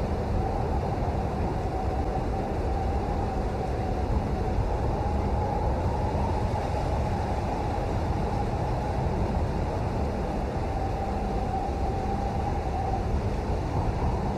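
Steady rain noise: a dense, even hiss with a heavy low rumble, used as white noise. A faint wavering tone sits under it and fades out near the end.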